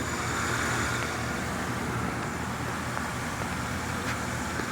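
A GMC truck's gasoline engine idling steadily.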